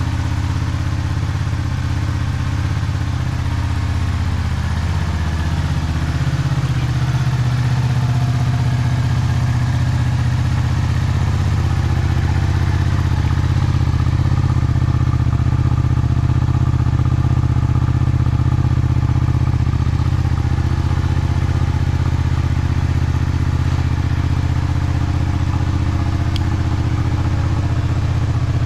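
Honda VTR250's 90-degree V-twin engine running steadily at low revs through an aftermarket Mugen muffler, a deep even exhaust note that gets slightly louder about six seconds in.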